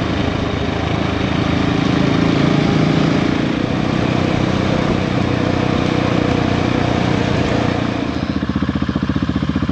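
Motorcycle engine running steadily; about eight seconds in it changes to a fast, even pulsing beat.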